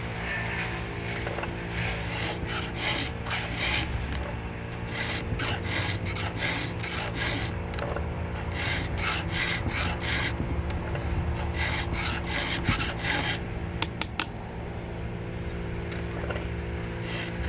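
A round chainsaw file rasping across the cutters of a long milling chain, in runs of about two strokes a second with short pauses between teeth, as the dulled chain is hand-sharpened. A few sharp clicks come about three quarters of the way through.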